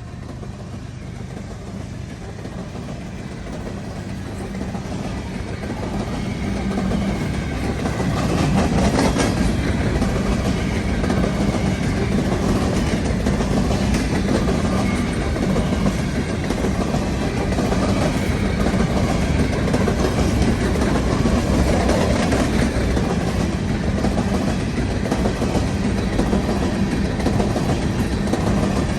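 Freight train of empty potash cars passing, growing louder over the first eight seconds, then a steady rumble with the clickety-clack of wheels rolling over the rail joints.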